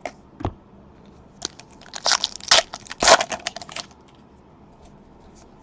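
Foil trading-card pack wrapper being torn open and crinkled in the hands: a couple of light clicks, then about two seconds of crackling and rustling.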